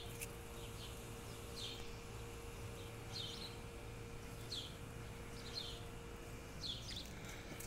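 A small bird giving short, high chirps that fall in pitch, repeated every second or so, over a faint steady hum.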